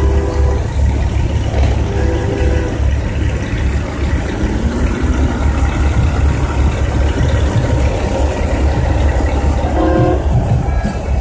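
Steady low rumble of idling semi-truck diesel engines, with brief horn-like tones a few times, near the start, about two seconds in and near the end.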